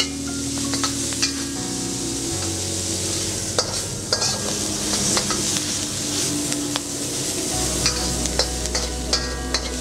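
Fire ants and their eggs sizzling in a hot metal wok while a metal spatula stir-fries them, scraping and clacking against the wok in frequent sharp clicks.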